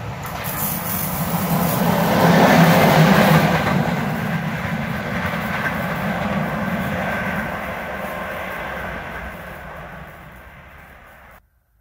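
A train passing close by on the track, growing loud to a peak about three seconds in, then running on and fading. It cuts off abruptly near the end.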